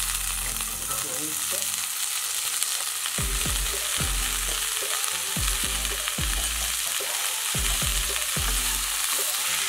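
Cut green beans sizzling in hot oil in a kadhai while a wooden spatula stirs them: a steady frying hiss. A low thump repeats about every 0.7 seconds from about three seconds in.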